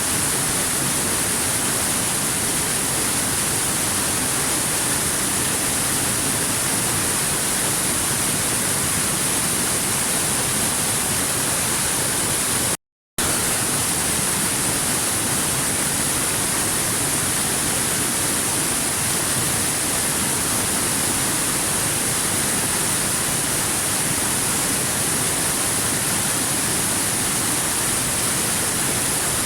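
Steady, unbroken rushing of a waterfall, with no change in level. A sudden, very short cut to silence about thirteen seconds in.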